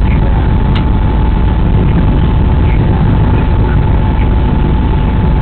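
Steady low rumble inside a moving train locomotive's cab, with a faint steady high whine over it, picked up by the cab recorder's microphone.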